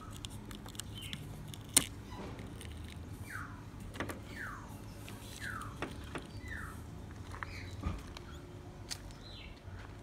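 A bird calling a series of short whistled notes that slide downward, about one a second, over a low steady hum. A few sharp clicks and taps break in, the loudest just under two seconds in.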